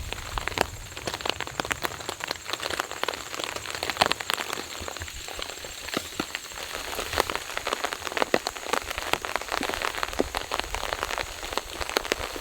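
Rain falling on a tarp, with many separate drops tapping close by over a steady hiss.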